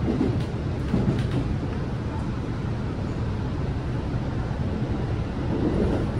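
Steady running rumble of a local train, heard from inside the carriage, with a few faint clicks about a second in.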